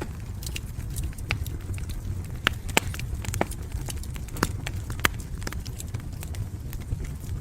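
Wood fire in a fireplace crackling, with irregular sharp pops and snaps, a few a second, over a steady low rumble of the flames.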